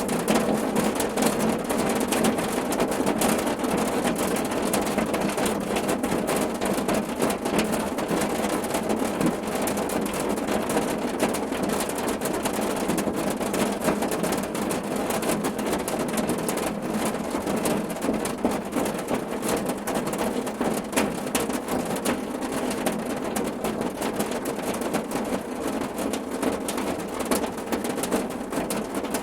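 Steady rain falling on a car roof: a dense, even patter of countless drops with no let-up.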